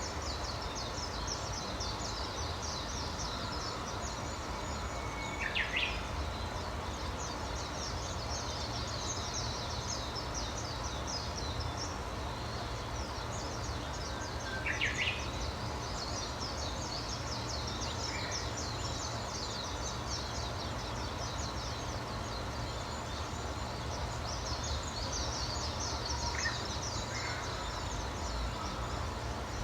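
Wild birds chirping and twittering continuously in high, rapid notes, with a louder call standing out about five seconds in and again about fifteen seconds in, over a steady low background rumble.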